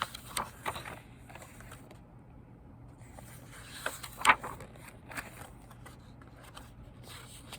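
Pages of a picture book being handled and turned: a few short paper rustles and light taps, the loudest about four seconds in.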